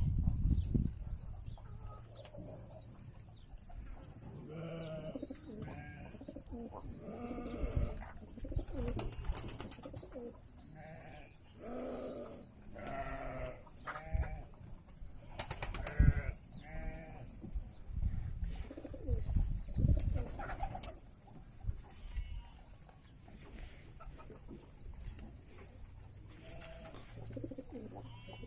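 Domestic pigeons cooing repeatedly, with faint high chirps of small birds and an occasional knock.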